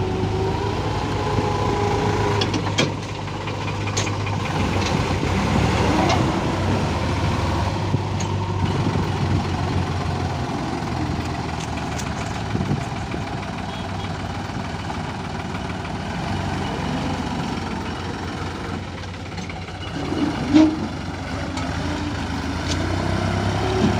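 Diesel engines of a JCB 3DX backhoe loader and a New Holland 3600-2 tractor running steadily, with occasional knocks and one louder bang about twenty seconds in.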